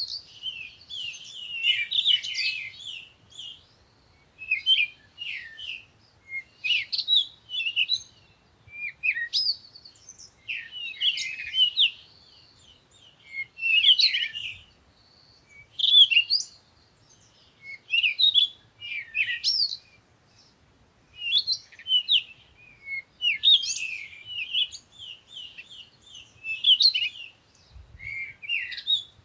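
Songbirds chirping and singing in quick, high-pitched bursts of chirps and trills, a short phrase every second or two with brief pauses between.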